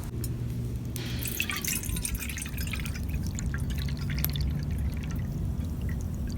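Water being poured into a cup, trickling and splashing, for about three seconds from about a second in, over a steady low rumble.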